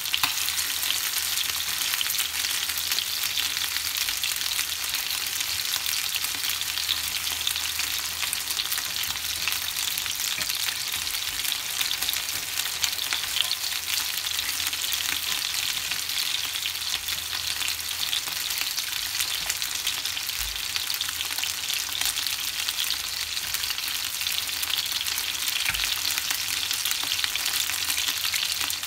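Chicken wings sizzling in hot oil in a nonstick frying pan, a steady hiss with a few light clicks as the pieces are turned over with chopsticks.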